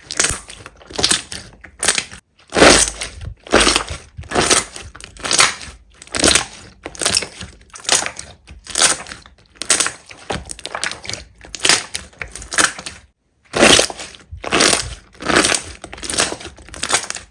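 Slime being pressed and squeezed by hand: a steady run of short, noisy squishes, about one or two a second, with a brief break about thirteen seconds in.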